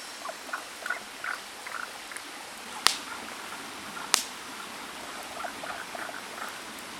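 Frogs calling in short repeated notes over a steadily running stream, with two sharp clicks about three and four seconds in.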